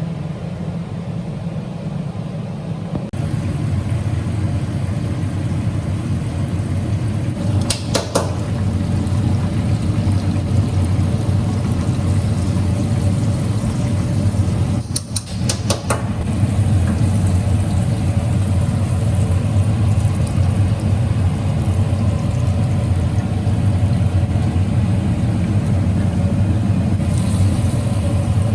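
A motor running with a steady low hum, with brief clicks about eight seconds in and again around fifteen seconds.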